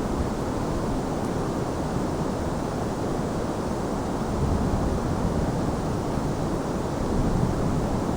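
Steady rainfall mixed with a deep, low rumble of distant thunder, which swells slightly about halfway through and again near the end.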